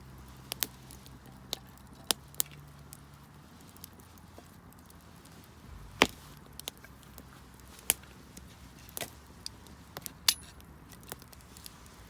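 Wood bonfire crackling, with irregular sharp pops and snaps of burning wood, the loudest about six seconds in.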